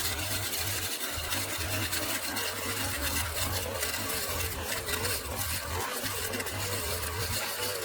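A small engine running steadily, its low hum briefly dipping a few times.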